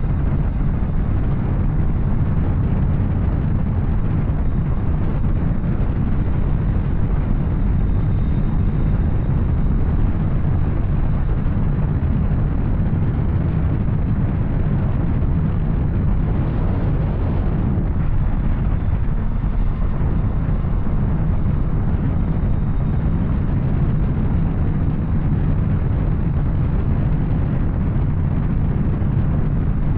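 Yamaha Tracer 900's inline-three engine with an Arrow exhaust running at a steady cruise, mixed with wind rush on the microphone while riding.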